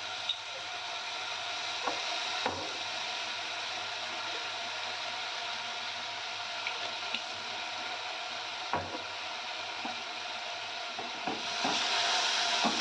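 Diced vegetables sizzling steadily in hot oil in a kadai, with soy sauce just added, and a few light clicks. Near the end they are stirred with a spatula and the sizzling grows louder.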